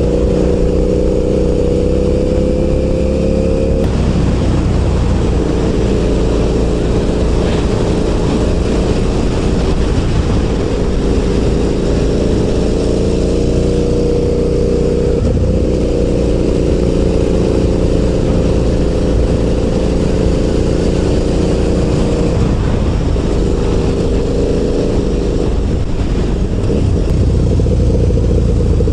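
KTM 990 Super Duke's V-twin engine running on the road. Its note climbs slowly and drops back a few times, over a steady rush of wind noise.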